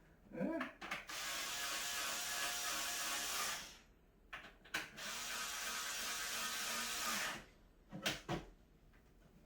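Cordless electric screwdriver running in two bursts of about two and a half seconds each, driving screws while a cat tower is put together, followed by a few short knocks near the end.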